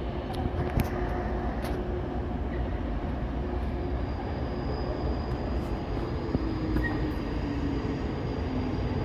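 Amtrak passenger train approaching through an interlocking: a steady low rumble of locomotive and wheels on the rails, with a couple of sharp clicks in the first two seconds and a low tone sliding slightly down near the end.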